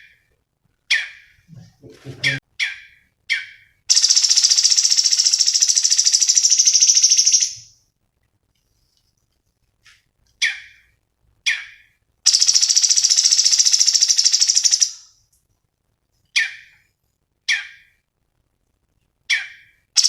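Cucak cungkok song: sharp single chirps about a second apart, broken twice by a long, loud, rapidly pulsing buzzy trill lasting about three seconds.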